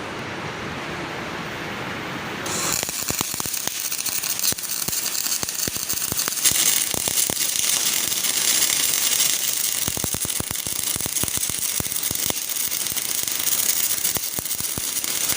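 MIG welding arc crackling steadily as the capping pass is run on a 1G (flat) plate joint with 0.8 mm wire. The arc strikes about two and a half seconds in, after a steady hiss, and keeps crackling.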